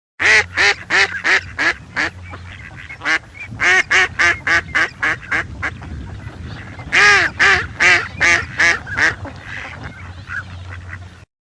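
Duck quacking in three quick runs of loud quacks, with softer calls in between.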